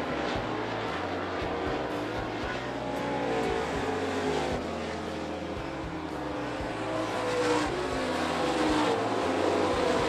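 Several dirt late model race cars' V8 engines running hard around the track, their engine notes overlapping and rising and falling in pitch as the field goes by, louder near the end.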